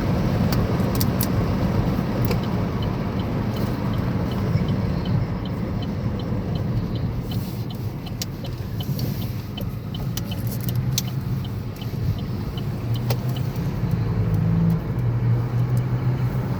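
Car cabin noise while driving: a steady low road and engine rumble. Over it come scattered sharp fingernail taps, and a run of light, evenly spaced ticks for several seconds in the middle.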